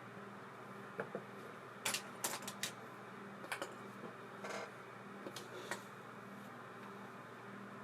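Light clicks and taps from handling a small metal baitcasting reel and its parts, about eight scattered knocks with one short rasp about halfway through, over a steady low hum.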